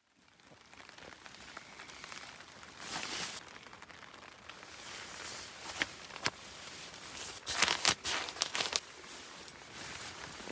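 Rustling and crinkling of material being handled, with scattered sharp clicks and a louder cluster of crackles about eight seconds in.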